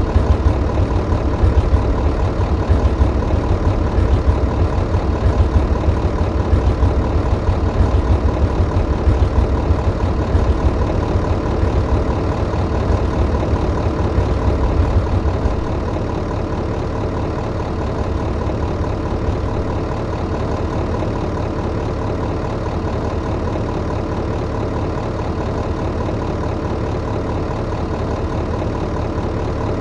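Tractor engine running steadily at idle. It has a deep pulsing rumble that eases to a steadier, lower level about halfway through.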